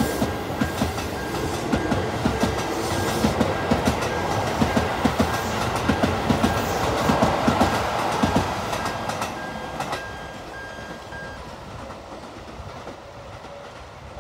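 Keisei 3858-set electric train rolling away along the track, its wheels clicking over rail joints and points in a steady clickety-clack. The clicking and rumble grow loudest about seven to eight seconds in, then fade after about ten seconds as the train draws off into the distance.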